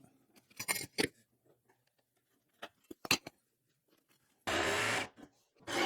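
A few light handling clicks and knocks, then a jigsaw cutting notches into a panel in two short runs: a half-second burst about four and a half seconds in, and another starting near the end.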